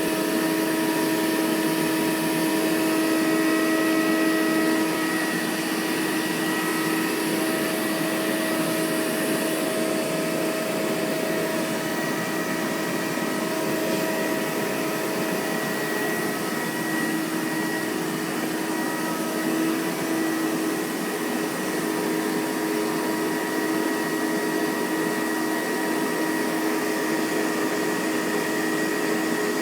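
Vacuum cleaner running steadily, a constant rushing hiss with a steady whine on top.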